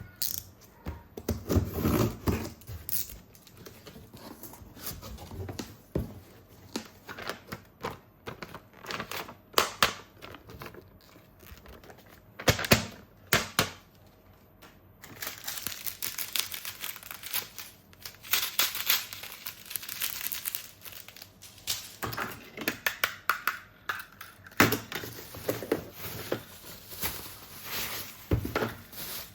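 Plastic packaging crinkling and tearing as a toy set is unboxed, with irregular clicks and knocks of hard plastic toy parts being handled.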